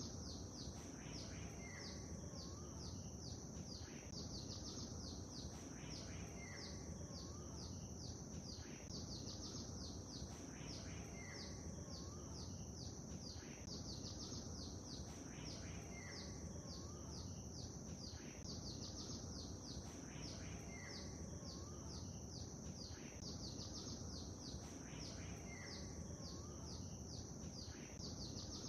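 Lakeside ambience: a steady low wash of water with songbirds chirping continuously over it. There are rapid high, downward-sweeping chirps throughout, and a short lower call repeats every few seconds.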